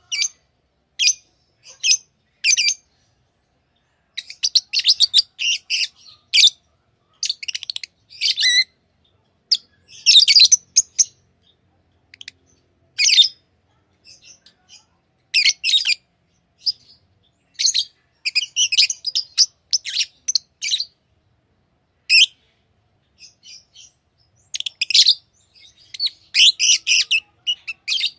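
Lovebirds chirping: bursts of short, shrill calls, several quick chirps at a time, with brief pauses between the bursts.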